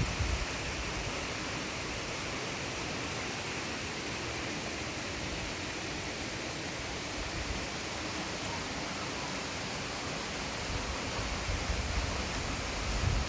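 Steady, even outdoor rushing noise, with low wind rumble on the microphone at the start and again near the end.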